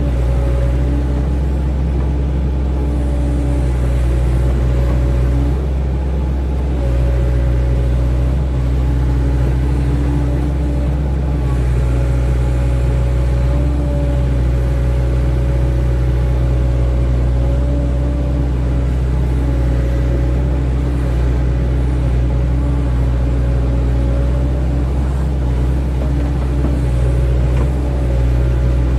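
Excavator's diesel engine running steadily, with an even low drone throughout.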